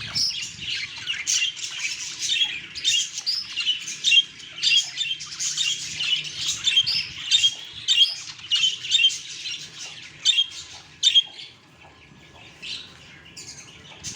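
Budgerigars chattering: a dense stream of quick, high chirps and squawks that thins out near the end.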